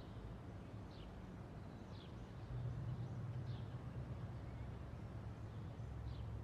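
Faint outdoor ambience: a low, steady rumble that grows louder about two and a half seconds in, with a small bird's short, falling chirps repeating about once a second.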